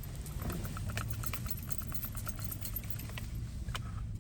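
Car engine idling, heard from inside the cabin as a steady low hum, with a run of faint small clicks about half a second to a second and a half in.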